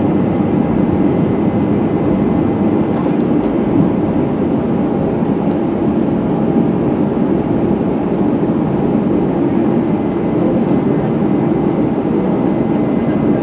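Airbus A320's CFM56 turbofan engines running steadily at high takeoff thrust, heard from inside the cabin as a loud, even rush with a faint steady whine above it.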